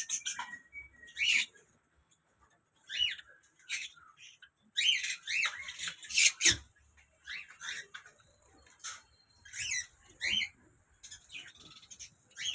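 Java sparrows in a colony chirping and calling in short, irregular bursts, with several birds calling together around the middle.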